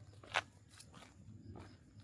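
Footsteps of a person walking on a path, a crisp step about every two-thirds of a second, the sharpest about a third of a second in.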